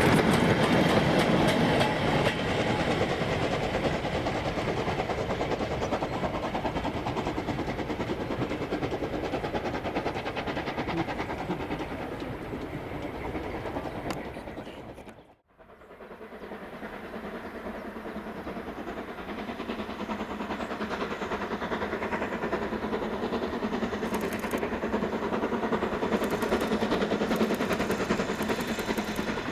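Steam-hauled train, GWR 2884 class 2-8-0 3850, running past and fading away. After a cut about halfway through, a second steam train, BR Standard 4 tank 80078, approaches and grows steadily louder.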